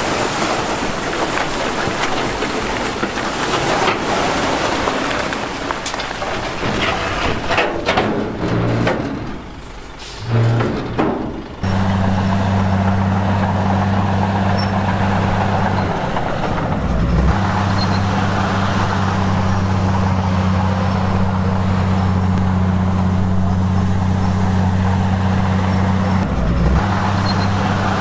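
Heavy diesel earthmoving machinery running, with knocks and clanks at first. About a third of the way in it changes abruptly to a steady low engine drone, which wavers briefly twice.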